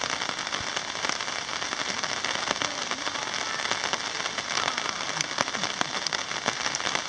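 Rain pattering on a tent's rain fly: a steady patter of many small drop hits.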